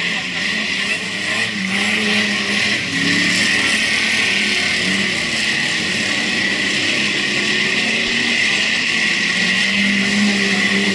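Speedway race car engines running hard around the track as a steady, loud din, their pitch wavering up and down as the cars circulate.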